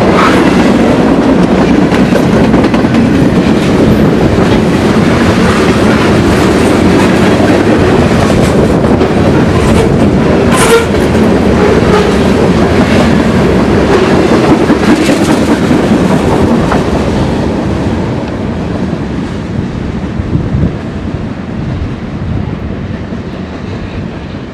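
Train rolling past close by, its wheels clicking over the rail joints, loud and steady at first, then fading away over the last several seconds as it recedes.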